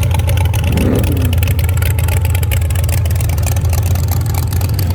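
Car engines running as parade cars roll slowly past, a steady low rumble.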